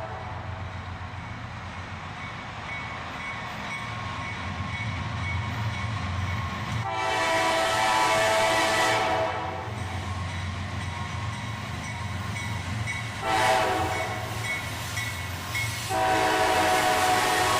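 Multi-chime air horn of a CSX freight train's lead locomotive, a GE ES40DC, sounding over the steady low rumble of its diesel engines. It gives a long blast about seven seconds in, a short one near thirteen seconds, and another long one starting about sixteen seconds in: the long-long-short-long grade-crossing signal.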